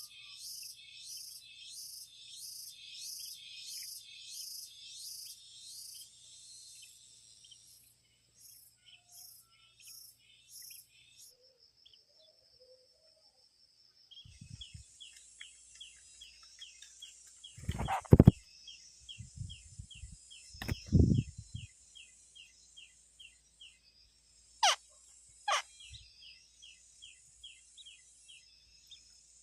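Insects chirping in steady rhythmic pulses, with two sharp falling bird calls close together past the middle. Two loud low thumps come in the middle stretch.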